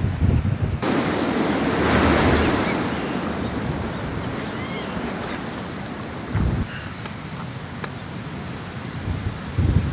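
Strong wind gusting and buffeting the microphone. A loud rush comes in suddenly about a second in and slowly dies away.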